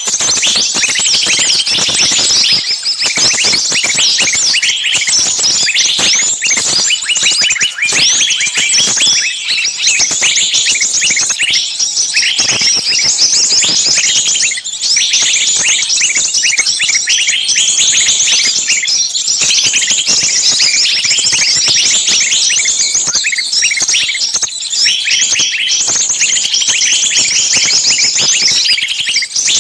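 Dense, continuous high-pitched chirping: many short, rapid chirps overlapping throughout.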